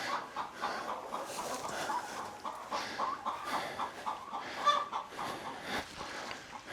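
Chickens clucking: many short, overlapping calls repeating steadily, with one louder call a little after the midpoint.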